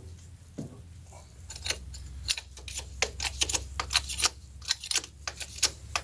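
A run of sharp, irregular metal clicks and ticks, a few a second, starting about a second and a half in, from tools and steel parts being handled. A low steady hum runs underneath.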